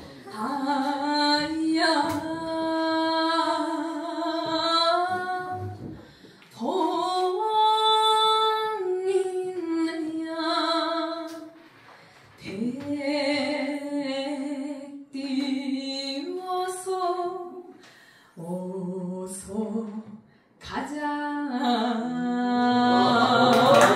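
A woman singing a Korean trot song unaccompanied. She sings several phrases of long held notes with short breaths between them and ends on a long sustained note.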